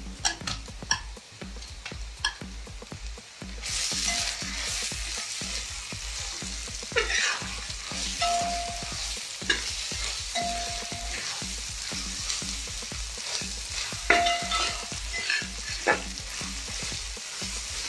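Sliced onions and ginger-garlic paste sizzling in hot oil in a wide metal pan (uruli), stirred with a spatula that scrapes and clacks against the pan. The sizzle grows louder about four seconds in.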